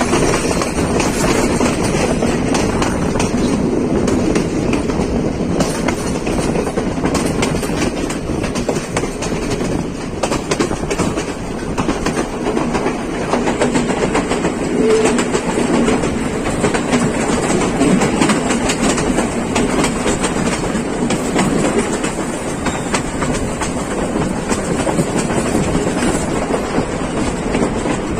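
Train running along the track: a steady rumble with the continual clickety-clack of wheels over rail joints.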